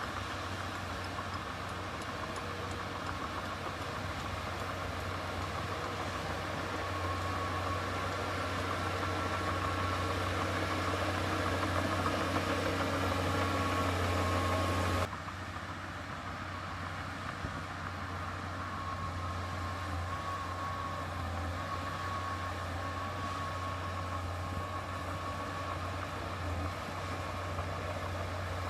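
Diesel engine of heavy earthmoving machinery running steadily with a low hum. It grows louder over the first half, then drops abruptly about halfway through and runs on more quietly.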